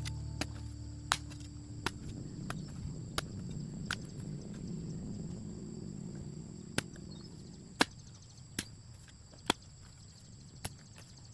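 A series of sharp, separate knocks at irregular intervals, about nine in all, over a steady faint high-pitched hum.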